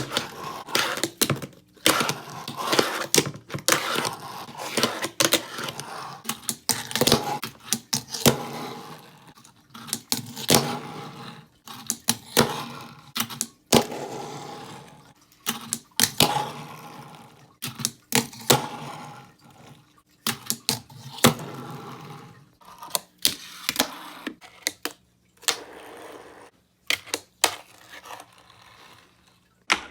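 Wooden fingerboard clacking and knocking on a hard surface: a rapid, irregular run of sharp clicks and taps, thinning out to scattered knocks near the end.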